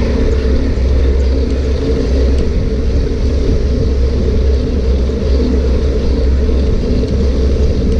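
Steady, loud low rumble of wind and riding noise buffeting the microphone on a moving bike.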